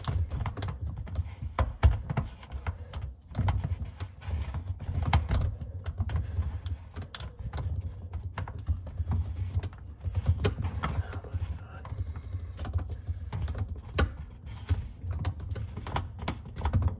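Irregular plastic clicks and knocks from a dishwasher filter being handled and worked down into its seat in the dishwasher floor.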